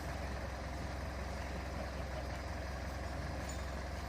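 Fire truck engine idling steadily with a low, even hum.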